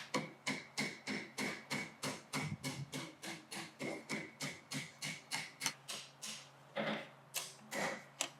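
Light, quick hammer blows on hot steel at the anvil, about four a second with a faint ring, pausing briefly a little after six seconds in, as a bar is bent into a circle. A generator hums steadily underneath.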